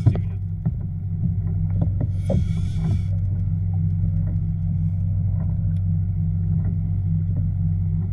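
A steady low hum of a boat motor, with scattered small clicks and a short hiss about two seconds in.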